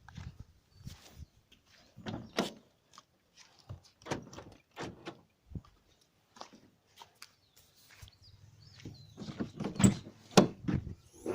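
Scattered clicks and knocks, then a denser run of louder thunks near the end, as the Nissan Wingroad Y11's rear tailgate is handled and opened.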